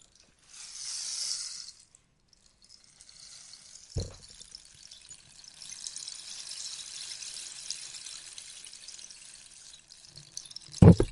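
Rainstick: a brief rush of beads falls through the tube, then a long, even patter of pellets trickles down. A sharp knock comes about four seconds in, and a louder knock near the end.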